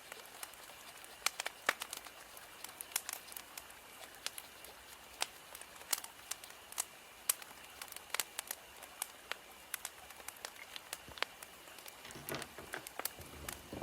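Burning firewood crackling, with irregular sharp snaps and pops over a faint hiss. A low, soft sound joins near the end.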